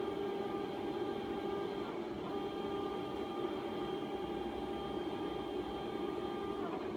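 Dorsey Metrology 24P CNC optical comparator running: a steady machine hum with a thin whine above it that changes pitch about two seconds in and stops near the end.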